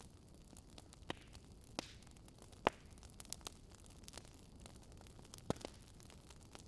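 Wood fire crackling in a fireplace, faint: irregular sharp pops over a low steady hiss, the loudest pop a little under three seconds in.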